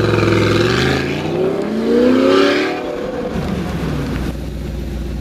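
Audi R8 with a Capristo exhaust accelerating hard. The engine note climbs, dips briefly about a second in as it shifts up a gear, then climbs again to its loudest and fades out after about three seconds.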